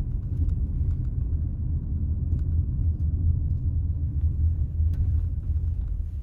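Steady low rumble of a car heard from inside the cabin: engine and road noise, with a few faint ticks.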